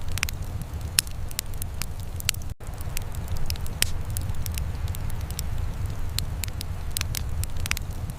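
Wood fire crackling, with irregular sharp pops over a steady low rumble. The sound cuts out for an instant about two and a half seconds in.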